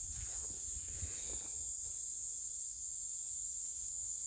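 Steady, high-pitched chorus of night insects in the rainforest, with some faint low rustling in the first second or so.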